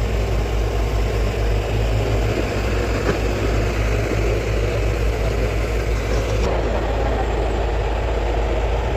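Hyundai Robex excavator's diesel engine running steadily, a deep, continuous engine sound.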